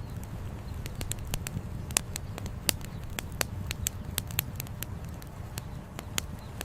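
Wood campfire crackling, with irregular sharp pops several times a second and a few louder snaps, over the steady low rush of a flowing river.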